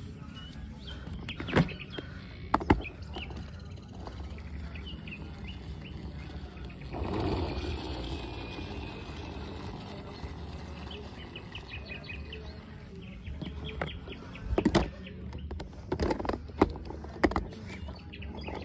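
Scattered sharp knocks, twice early on and then in a cluster near the end, over a low steady rumble, with birds chirping faintly.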